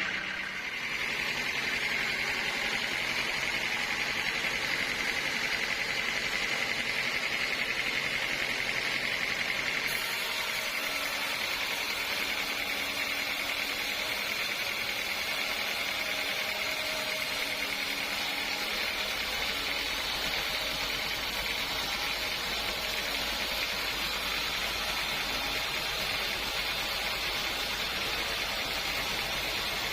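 Sawmill machinery running steadily, a continuous mechanical noise with a high whine.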